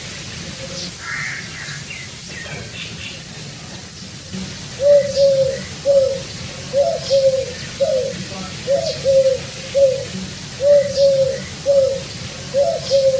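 Pigeon cooing in short, low phrases that repeat about once a second, after a lull of a few seconds near the start with a few faint, higher chirps from another bird.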